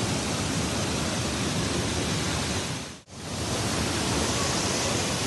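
Steady rushing of floodwater, dropping away for a moment about three seconds in and then coming back.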